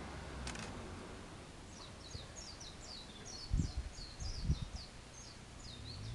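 A small bird chirping, a quick run of short high notes, over steady outdoor background noise. A sharp click comes about half a second in, and two dull low thumps, the loudest sounds, come near the middle.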